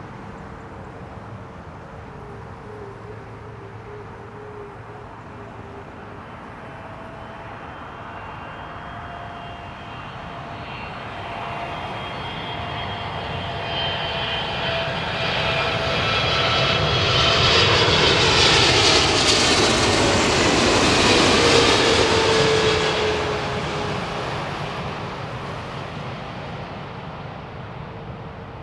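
Jet airliner passing close on its approach to land. Its engine noise swells to a peak about two-thirds of the way in, then fades, with a whine that falls in pitch as it goes by.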